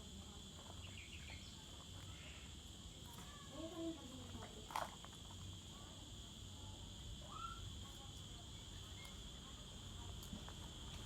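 Faint steady high-pitched trilling of insects, such as crickets, with a few short chirping calls and a single sharp click about halfway through.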